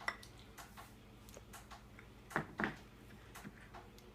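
A spoon knocking and scraping in a mixing bowl while stirring cookie dough: scattered light clicks, with two louder knocks in quick succession about two and a half seconds in.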